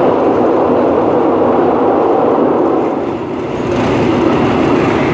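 Passenger train running, heard from on board: a steady rush of wheel, track and wind noise that dips briefly about three seconds in.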